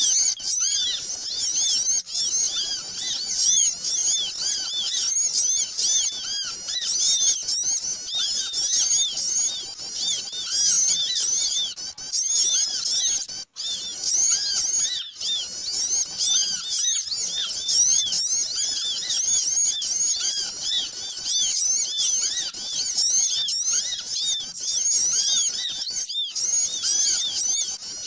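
A dense, noisy chorus of many small birds chirping rapidly and continuously in high, short overlapping calls, a lure recording for attracting small birds. The chorus breaks off for an instant about halfway through.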